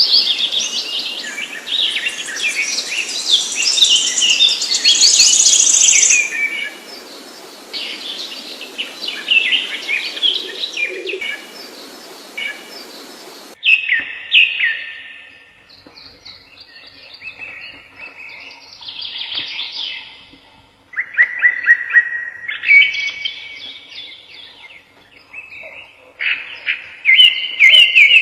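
Songbirds chirping and singing: busy overlapping chirps over a background hiss, then about halfway through an abrupt switch to a different recording of clearer, separate song phrases and rapid trills.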